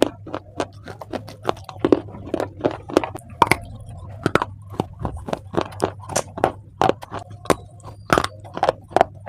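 Close-miked biting and chewing of crunchy baked clay: an irregular run of sharp, crisp cracks and crunches, several a second, over a low steady hum.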